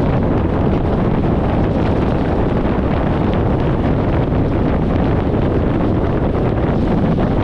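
Steady wind buffeting on an externally mounted microphone over the road noise of a 1994 VW Gol driving at highway speed.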